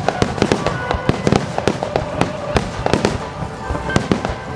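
Aerial fireworks shells bursting in quick succession, a dense run of sharp bangs and cracks several times a second over a continuous rumble.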